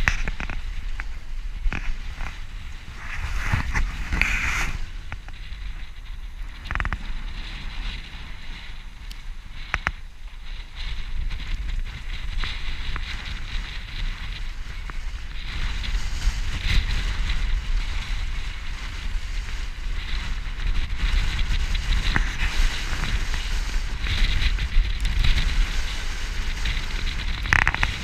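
Strong wind of 28–38 knots buffeting the microphone, with water rushing and hissing past the hull of a Boreal 44 sailing yacht under reefed sail; the rush swells and eases with the gusts and waves. A few sharp knocks stand out, the clearest about ten seconds in.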